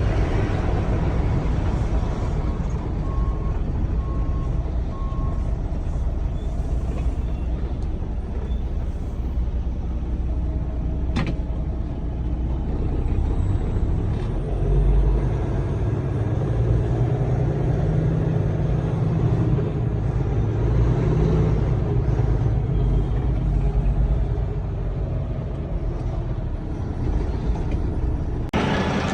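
Semi truck driving, a steady low engine and road rumble. Three short beeps come a few seconds in, and a sharp click about eleven seconds in.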